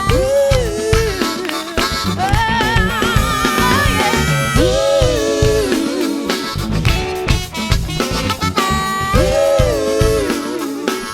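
A live soul-funk band playing an instrumental stretch: drums and bass keeping a driving beat under held, wavering melodic lines that repeat in phrases of about four seconds.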